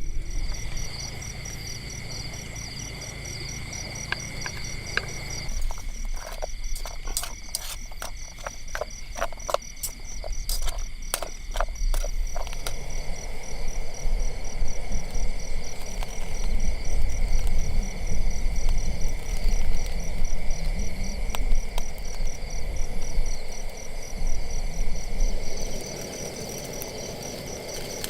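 Night insects, crickets, chirring steadily: a fast, pulsing high trill, joined by a lower steady tone that stops about five seconds in. Through the middle comes a run of sharp clicks and crackles, over a low, uneven rumble.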